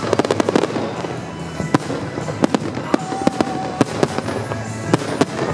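Fireworks going off: a rapid volley of sharp cracks in the first second, then single bangs every half second or so, over background music.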